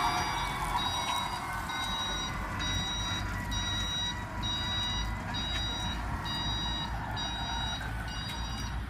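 Electric pallet truck's warning beeper sounding a steady train of high beeps, a little more than one a second. Under it is the low running noise of the truck's drive.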